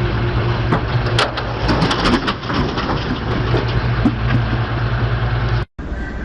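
A vehicle engine running steadily, with a run of cracking and crunching noises between about one and four seconds in. The sound cuts off abruptly near the end and gives way to a quieter steady hum.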